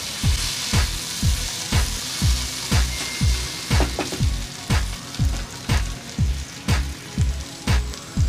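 Okra sizzling in a wok as it is stirred with a wooden spatula, the frying hiss strongest in the first few seconds. Background music with a steady beat of about two thumps a second runs over it and is the loudest sound.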